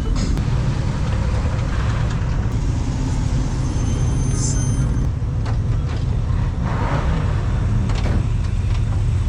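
Low, steady rumble of a car engine running, with scattered light knocks and a brief high-pitched tone about four and a half seconds in.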